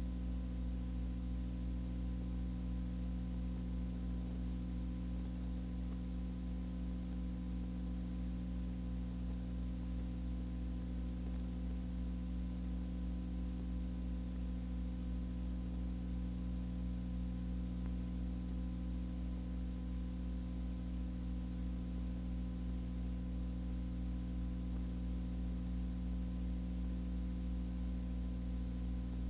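Steady low hum with a layer of hiss, unchanging throughout.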